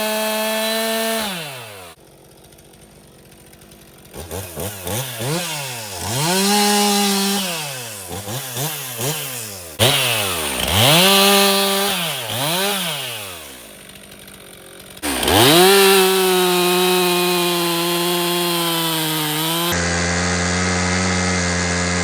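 Stihl MS362 M-Tronic chainsaw's two-stroke engine running at full throttle, then dropping away. It is blipped up and down in quick rev sweeps several times, then held wide open again and steady, with a heavier tone near the end. This is a test run after the fuel solenoid repair, and the saw revs out cleanly.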